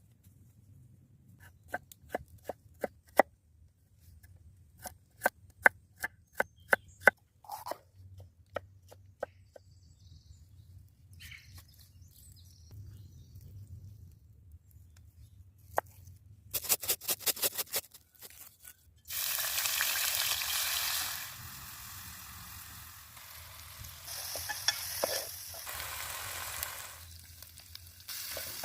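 Sharp kitchen knocks and clicks, some ringing briefly, come one at a time through the first nine seconds, then a quick run of them around seventeen seconds in. About nineteen seconds in, food goes into hot oil and a loud frying sizzle starts abruptly, then settles to a lower steady sizzle.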